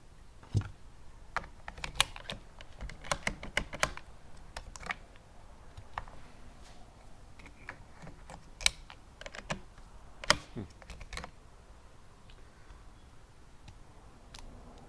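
Irregular sharp clicks of 22 LR cartridges being pressed into the Tikka T1x rifle's magazine. A few clicks stand out louder, and the clicking stops shortly before the end.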